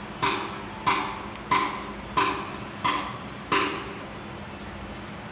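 Tool tapping on metal: six sharp strikes, each with a short ring, about two-thirds of a second apart.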